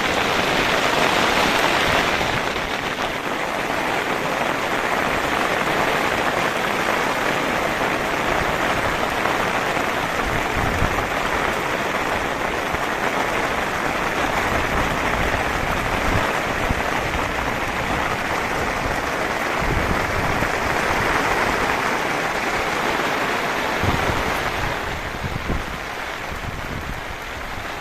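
Rain falling steadily in large drops, a dense even hiss that eases a little about 25 seconds in.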